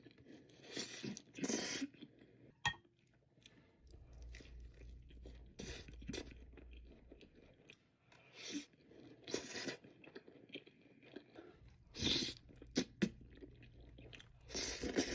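Close-miked eating: a series of crunchy bites and chewing, in loud crunches every few seconds with quieter chewing between.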